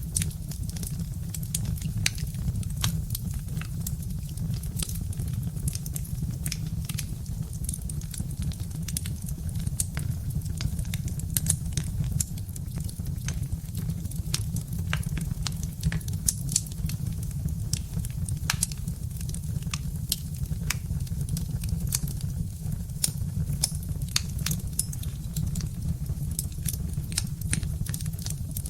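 Birch-wood fire crackling: irregular sharp pops and snaps of burning logs over a steady low rumble.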